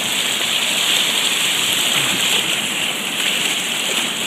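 Steady rushing noise of storm-surge floodwater pouring across a flooded street like rapids, with rain falling.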